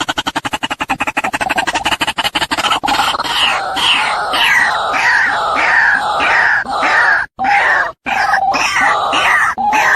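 Female white-breasted waterhen calling: a fast run of rapid clicking pulses, then from about three seconds in, harsh repeated falling notes, two or three a second, with short breaks near the end.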